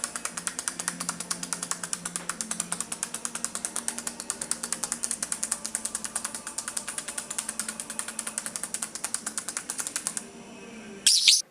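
A parrot making a fast, even run of clicks, about seven or eight a second, like a ratchet. It breaks off near the end with a short, loud, high-pitched squawk.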